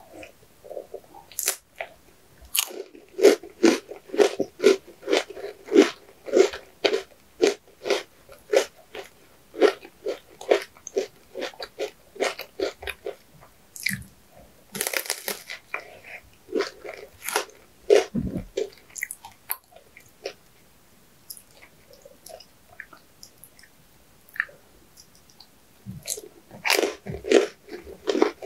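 Close-miked eating: crisp crunching bites and chewing, coming about twice a second, with a quieter stretch in the middle and a fresh run of crunching near the end.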